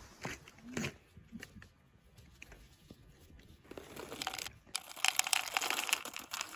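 Quiet crunching and crackling, sparse at first and growing denser from about four seconds in.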